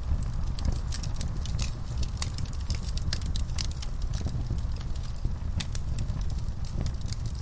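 Wood fire crackling in an outdoor firepit: irregular sharp pops and snaps, several a second, over a steady low rumble.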